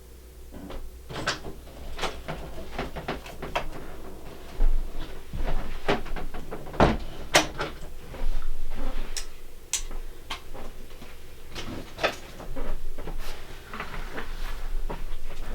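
A cardboard box and its packaging being handled and opened: a quick, irregular run of clicks, knocks and rustles.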